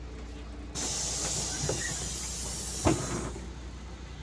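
Compressed-air hiss from a LiAZ city bus's pneumatic system. It starts abruptly under a second in, lasts about two and a half seconds, and has a single knock near its end, over the steady low drone of the idling engine.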